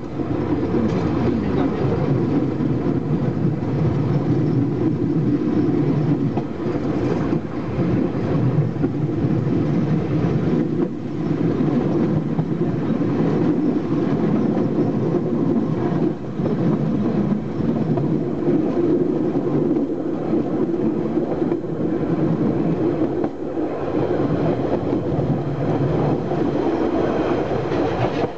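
Steady rumble of a heritage train's carriage wheels running along the rails at even speed, heard from the open rear balcony of the last carriage, with a few faint irregular knocks from the track.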